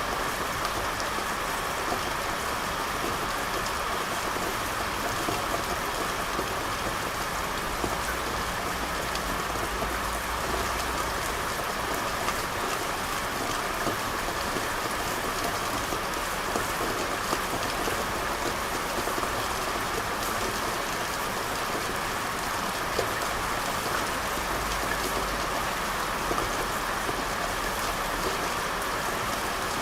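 Steady rain falling, with a dense patter of separate drops. A low rumble underneath swells and fades.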